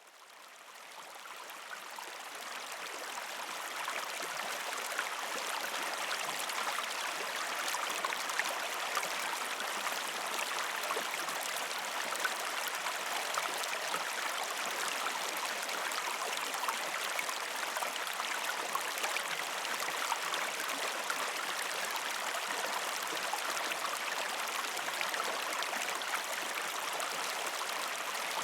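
River stream rushing and babbling over rocks in a steady, even wash of water noise, fading in over the first few seconds.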